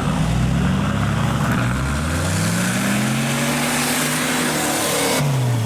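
Off-road 4x4's engine revving up hard under load, its pitch climbing for several seconds and then falling away near the end. A loud rushing hiss joins it partway through and cuts off suddenly just before the revs drop.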